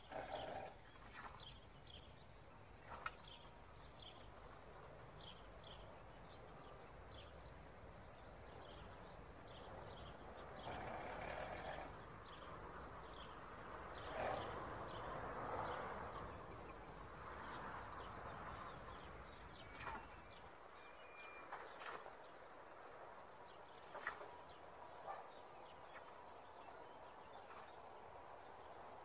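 Faint outdoor background with small birds chirping in short, repeated calls. A few soft swells of hissing noise come between about ten and nineteen seconds in.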